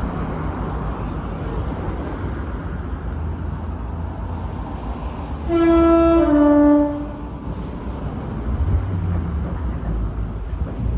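Class 08 diesel shunter's engine running with a low, steady drone. About five and a half seconds in, its two-tone horn sounds once, a higher note falling to a lower one, lasting about a second and a half.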